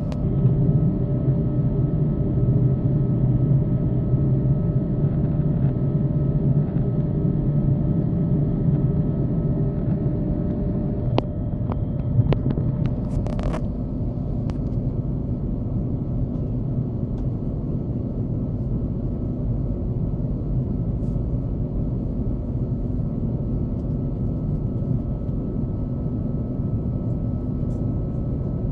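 Airbus A330-300 cabin noise in flight: a steady rumble of engines and airflow with a constant hum, and a few short clicks a little before the middle.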